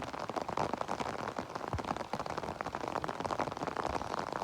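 Steady rain falling, a dense spray of small drop hits on a surface.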